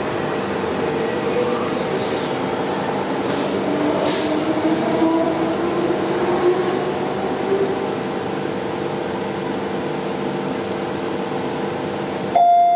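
Inside a moving electric suburban passenger train: steady running noise with the whine of the traction motors, one whine rising in pitch for a few seconds. Near the end a louder steady tone cuts in suddenly.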